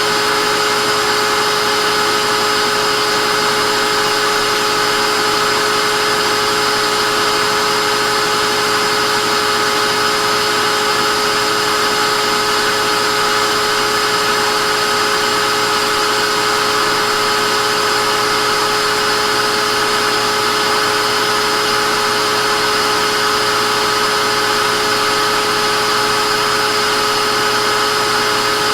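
Vacuum cleaner running steadily: an even rush of air with a steady motor whine, holding the same pitch and level throughout.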